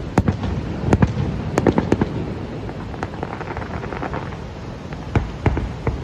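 Fireworks display: a rapid, uneven series of sharp bangs and crackles over a steady low rumble. The bursts are thickest in the first two seconds, thin out in the middle, and pick up again near the end.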